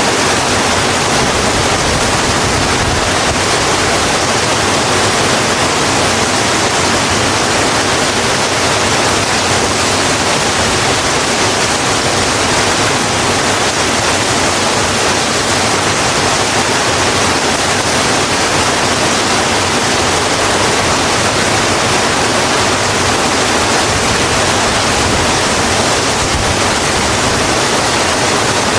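Steady rain falling on a road, a dense, even hiss of rainfall with no separate drops or breaks.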